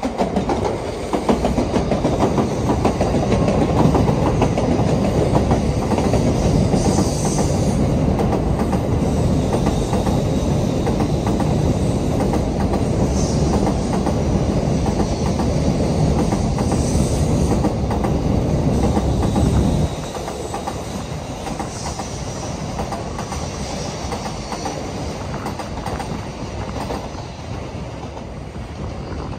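N700-series Shinkansen train running past, a loud steady rumble with wheel clatter on the rails. About two-thirds of the way through the loud running noise drops suddenly, leaving a quieter steady rumble.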